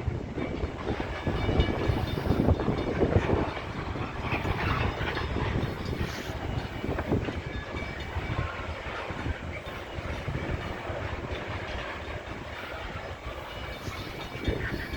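CN freight train of grain cars rolling past at speed, its wheels clattering steadily over the rails. It is a little louder in the first few seconds, then runs on evenly.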